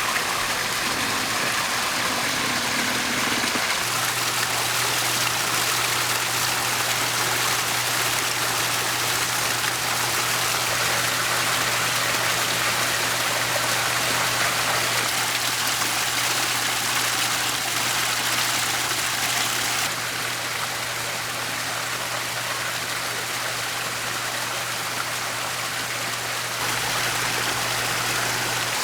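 Backyard pondless waterfall: water cascading steadily over boulders in a continuous splashing rush. A low steady hum sits under it from a few seconds in.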